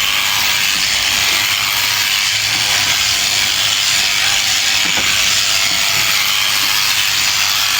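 Electric sheep-shearing clippers running steadily, buzzing as they cut through fleece.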